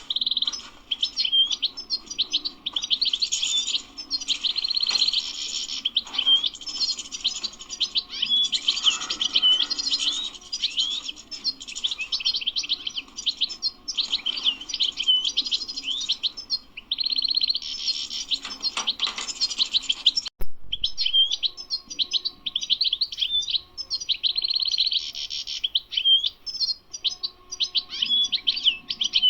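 European goldfinch singing a fast, continuous twittering song of rapid tinkling notes and trills. The song breaks off briefly with a click about two-thirds of the way through, then carries on.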